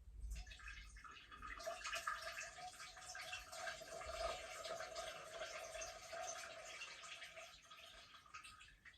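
A steady stream of water splashing into water, starting just after the beginning and cutting off near the end, about eight and a half seconds long.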